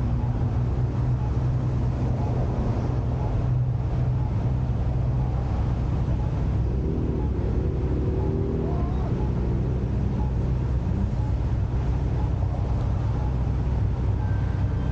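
Car engine idling steadily with a low, even hum while stopped.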